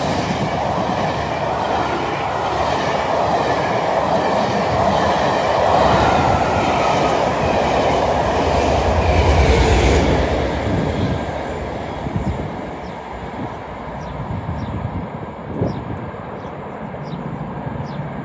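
A train passing on the main line, loudest about nine to ten seconds in, then dying away as it recedes.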